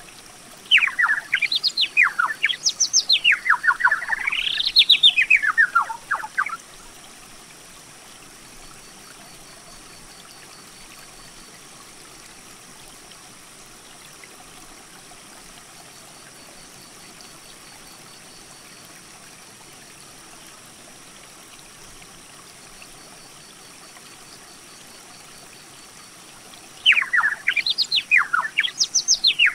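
A bird singing: a loud phrase of fast, whistled notes sweeping up and down in pitch for about six seconds. The bird sings a second phrase starting near the end. Between the phrases there is only a faint steady hiss.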